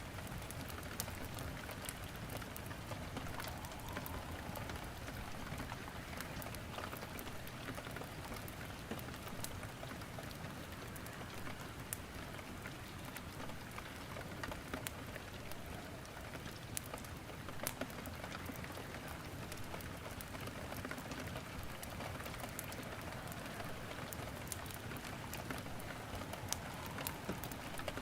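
Steady rain falling, mixed with wood crackling in a fireplace, its sharp pops and snaps scattered irregularly over the even hiss of the rain.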